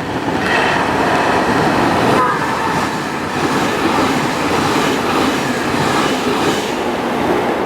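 JR Kyushu electric train running along the station platform: a loud, steady rumble of wheels on rail with clatter over the rail joints. There is a brief high wheel squeal about half a second in.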